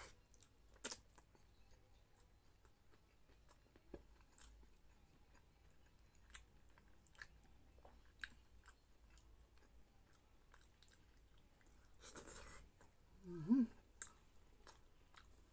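Close-up mouth sounds of a person chewing soft pork menudo and rice: small wet lip-smacking clicks scattered throughout. About twelve seconds in there is a louder brief noise, then a short voiced sound from the throat that rises and falls.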